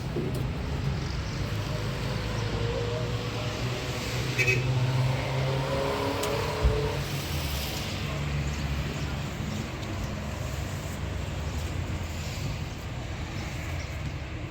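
Car driving: a steady low engine and road rumble, with a couple of brief knocks near the middle.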